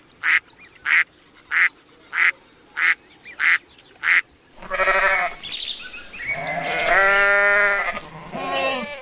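Animal calls: a run of seven short, high calls about every two-thirds of a second, then, from about halfway, a few longer wavering cries with a rising-and-falling pitch, the longest lasting about two seconds.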